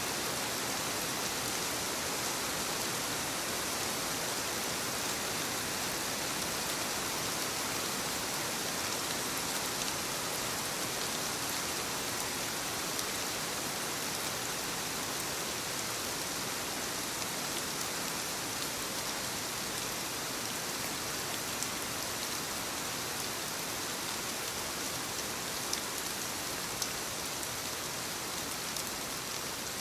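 Soft rain falling steadily on leaves, an even patter with a few louder single drops standing out.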